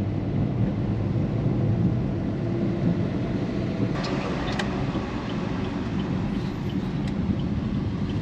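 Steady rumble of a car driving, heard from inside the cabin, with a few clicks about four seconds in and faint ticking about twice a second after.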